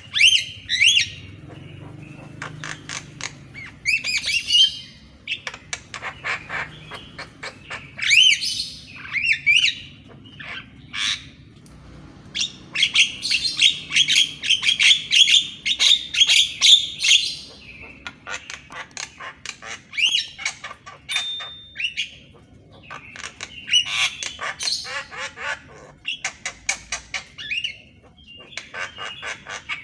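Javan myna singing: phrases of harsh chatter, rapid rattling clicks and short whistles, each lasting a second to a few seconds, separated by brief pauses.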